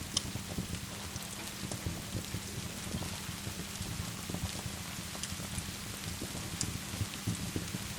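Steady rain pattering, mixed with a fireplace's scattered sharp crackles and pops.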